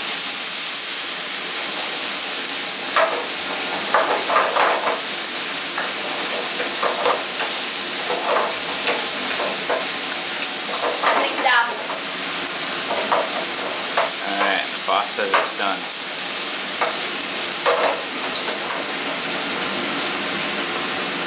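Diced chicken and dried chili peppers sizzling steadily as they are stir-fried together in a frying pan. A wooden spatula scrapes and stirs through them at irregular moments.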